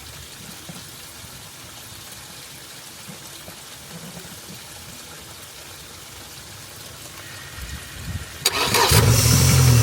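Yamaha 90 VMAX four-stroke outboard engine starting: after a stretch of low, even background noise, it catches suddenly about eight and a half seconds in and settles into a steady idle.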